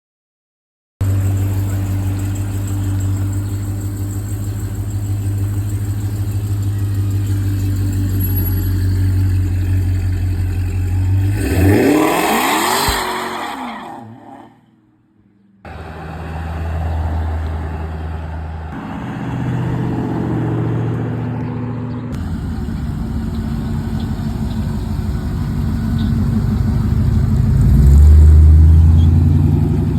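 Car engines rumbling at low speed, with one car accelerating and sweeping past about twelve seconds in. Further engine rumble and revving follows, loudest near the end.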